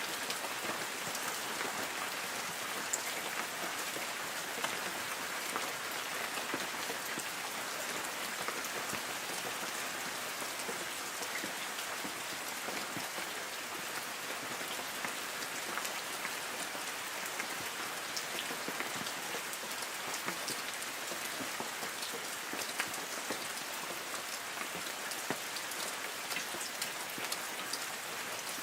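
Light rain falling on forest trees: a steady patter, with many separate drops ticking on leaves.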